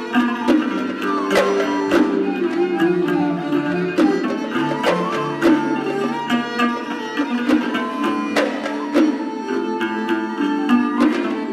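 Traditional Bahraini sawt ensemble music: plucked strings over frequent sharp hand-drum strokes.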